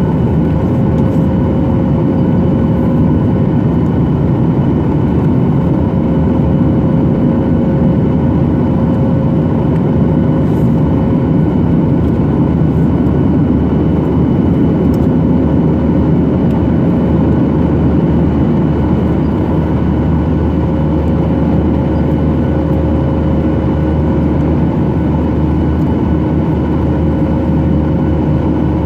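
Cabin noise of a Boeing 737-800 with its CFM56-7B turbofan engines running at steady power. It is a steady low rumble and rush of air with a few constant whining tones above it, unchanged throughout.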